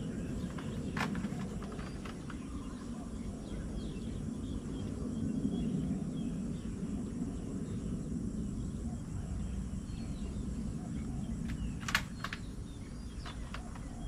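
Outdoor ambience: a steady low rumble with faint, scattered chirps of small birds, and a few sharp clicks, one about a second in and a louder pair near the end.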